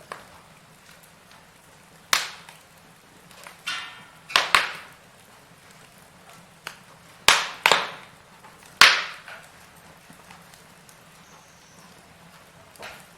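Firewood burning in a fireplace, giving sharp crackles and pops (about half a dozen loud snaps, each dying away quickly) over a low steady background, with a brief hiss about three and a half seconds in.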